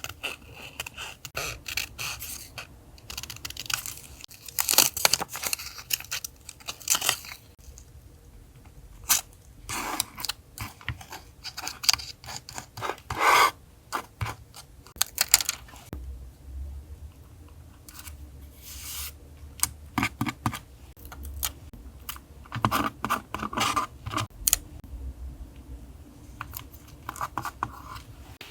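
Paper and sticker sounds from collage journaling: stickers and papers peeled, torn, rubbed and rustled in short, irregular bursts. A low background hum runs underneath and is stronger in the second half.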